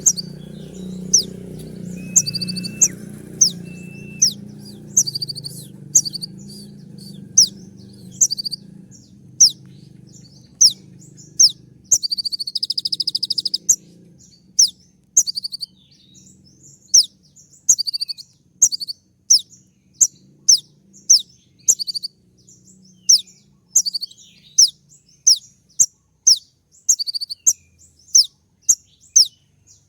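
Kolibri ninja (konin) sunbird singing a 'tembak' song: a long series of sharp, high, downward-sweeping notes, about one to two a second, broken by a fast rattling trill about twelve seconds in. A faint low hum sits under the first half and fades out.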